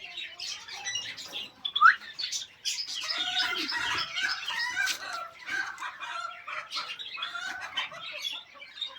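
Many caged birds chirping and calling over one another, with short repeated whistled notes. One loud, short rising call stands out about two seconds in.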